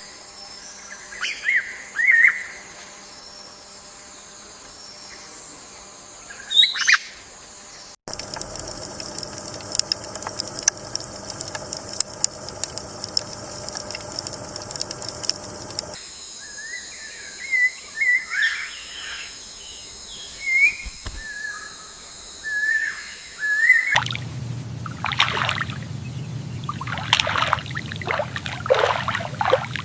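Birds chirping and calling over steady outdoor background ambience. The background changes abruptly about every eight seconds as separate recordings are cut together.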